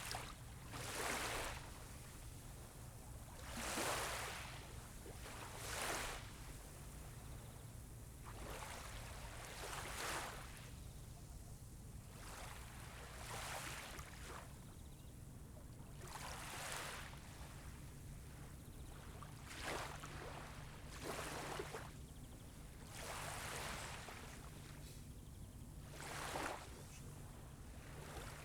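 Small waves lapping and breaking gently on a sandy beach, a soft wash every two to three seconds, over a steady low hum.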